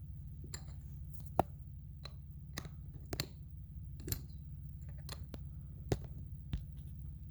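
Metal wrench clicking against a small nut as the lock nut on a Seadoo two-stroke oil injection pump is tightened. There are several sharp clicks at irregular intervals over a steady low hum.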